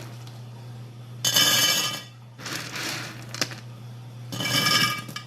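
Two short bursts of clattering with a ringing metallic clink, each under a second and about three seconds apart, with lighter clatter between them. A steady low hum runs underneath.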